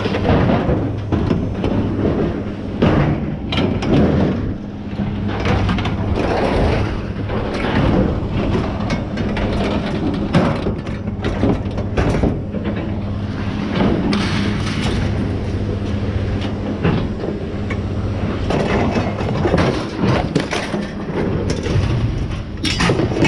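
Scrap metal clanking and banging as pieces are pulled off and tossed onto a pile, with many irregular knocks, over a steady low machine hum.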